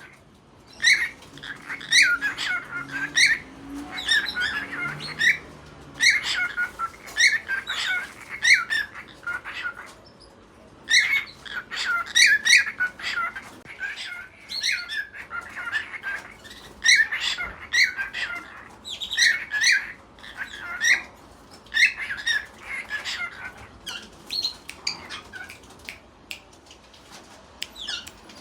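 Cockatiel chirping and squawking in quick runs of short, sharp calls, coming in bouts with brief pauses between them.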